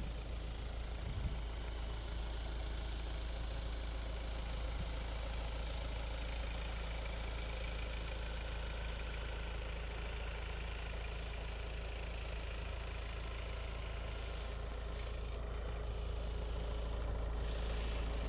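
DS 7 Crossback engine idling steadily.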